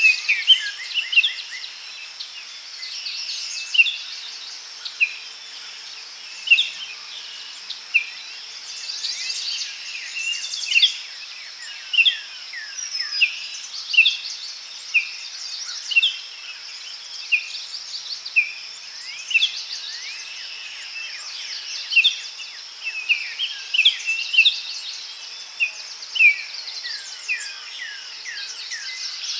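Several songbirds calling, short chirps and downward-sliding notes recurring about once a second, over a steady high-pitched hiss.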